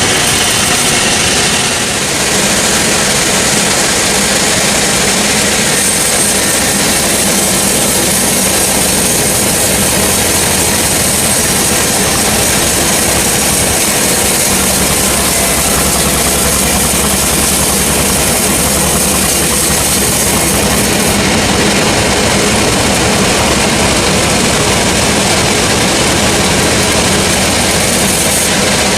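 Sawmill machinery running loud and steady: a saw cutting timber over the rumble of its drive. A faint high whine sits over it through the middle stretch.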